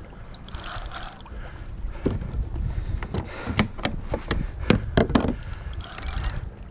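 Water sloshing against a kayak's hull with wind buffeting the microphone, and a run of sharp clicks and knocks through the middle, the loudest of them about two thirds of the way in.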